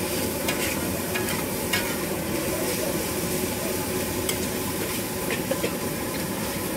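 Food frying and sizzling in oil in a pan while a spatula stirs it, clicking and scraping against the pan several times.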